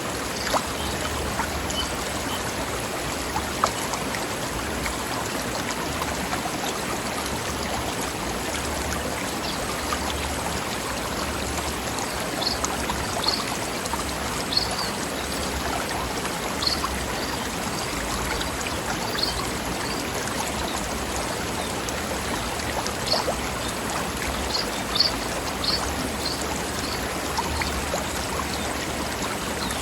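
Mountain stream babbling over rocks: a steady rush of water with small splashes throughout. Short, high bird chirps repeat through the middle and later part.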